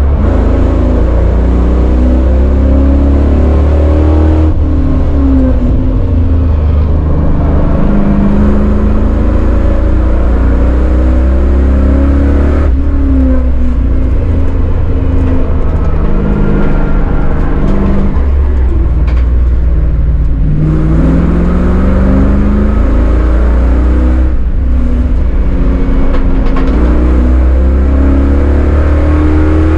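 Chevrolet Caprice 9C1's LT1 V8 engine at full throttle, heard from inside the cabin, revs repeatedly climbing and then dropping away sharply about four times as it accelerates and slows for corners.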